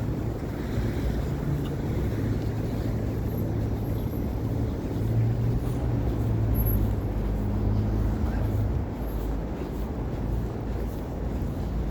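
City street traffic: a motor vehicle's engine runs steadily close by over a low road rumble. The engine hum drops away a little under nine seconds in.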